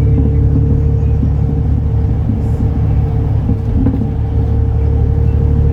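Diesel engine of a MAN Lion's City NL293 city bus running at a steady speed, a deep even drone that eases slightly about halfway through.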